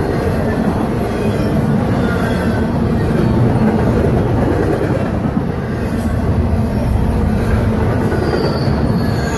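Double-stack container train rolling past: a loud, steady rumble of steel wheels on rail and well cars, with a few brief, faint wheel squeals.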